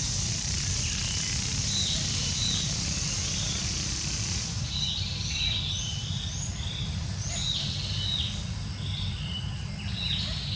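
Forest ambience: birds chirping in short repeated calls, over a high steady insect hiss that stops about halfway through and a steady low rumble.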